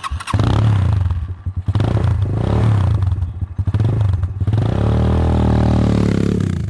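Enduro motorcycle engine revving under throttle, the pitch rising and falling in several surges, then held higher for a couple of seconds in the second half.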